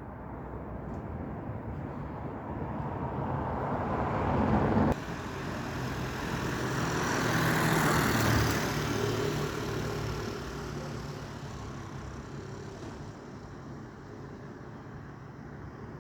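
Road traffic passing close by. One vehicle's sound builds and cuts off suddenly about five seconds in, then another vehicle with a steady engine hum passes, loudest around eight seconds, and fades into quieter traffic.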